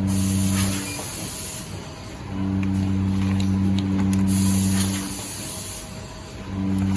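Automatic liquid pouch packing machine for cooking oil running through its cycle. A steady hum cuts out about a second in and again near five seconds, then returns each time. The hum alternates with bursts of high hiss, and there are scattered light clicks.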